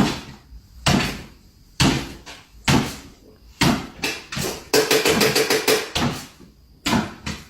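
Repeated knocks or bangs, about one a second, each sharp and briefly ringing, coming closer together around the middle.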